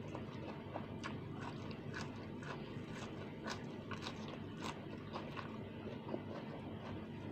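A person chewing a mouthful of rice, fried fish and greens, with irregular crisp crunches and wet mouth clicks about two a second.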